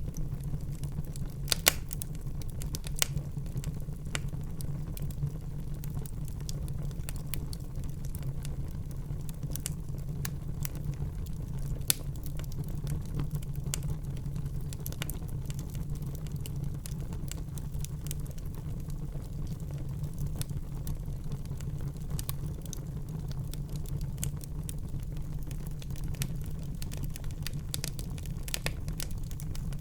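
Wood fire burning in a fireplace: a steady low rumble of flames with scattered crackles and a few sharp pops, the loudest about a second and a half in and again near twelve seconds in.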